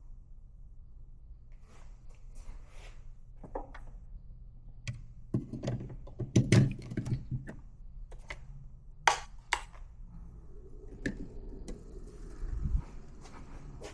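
Irregular clicks, taps and knocks of small coffee-making equipment being handled, over a steady low hum; a denser cluster of knocks comes about six to seven seconds in.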